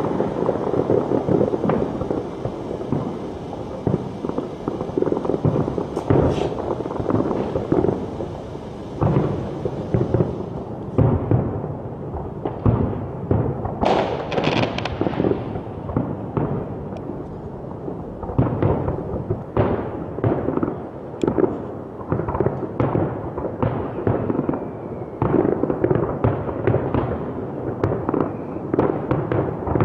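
Fireworks going off in a continuous barrage of rapid bangs and crackles, with a sharper burst of high crackling about halfway through.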